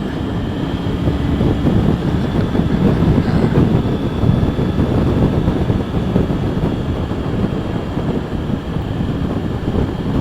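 Wind rushing over a helmet-mounted microphone on a motorcycle at road speed, with the bike's engine and tyre noise as a steady low rumble underneath.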